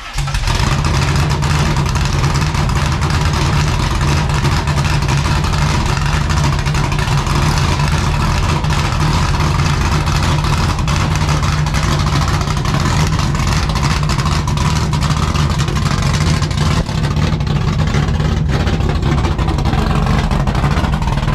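Pickup truck's engine running at a steady cruise with road noise, pulling a trailer.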